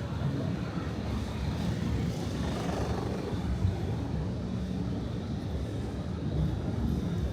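Busy city street ambience: a steady low rumble of passing traffic with a general hubbub.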